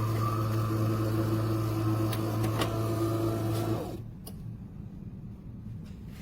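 De'Longhi Rivelia automatic espresso machine running with a steady, loud mechanical hum that cuts off suddenly about four seconds in, followed by a few faint clicks.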